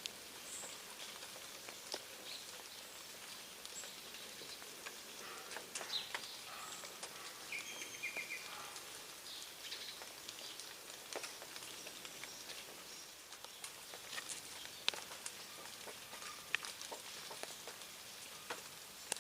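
Birds at a feeder: scattered light taps and pecks with a few short, high chirps over a steady hiss.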